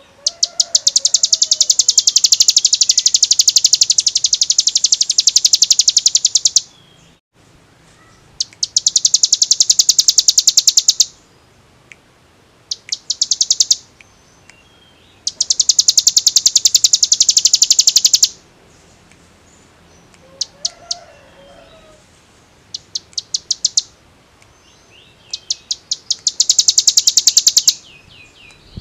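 Ciblek gunung (hill prinia) singing in its 'ngebren' style: a very fast, machine-gun-like rattling trill of high notes, delivered in phrases of a few seconds with short pauses, the longest about six seconds near the start.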